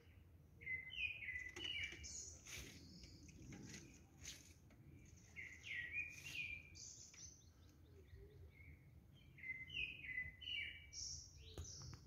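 Wild songbirds singing in trees. A short phrase of clear, stepped, falling notes comes three times, about four seconds apart, with higher thin calls between.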